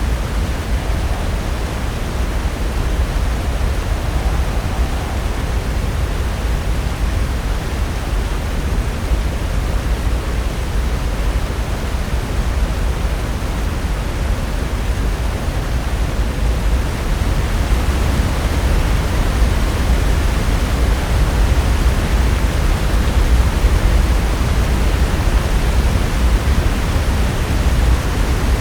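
Pacific Ocean surf breaking and washing ashore: a steady, deep rushing that grows somewhat louder in the second half.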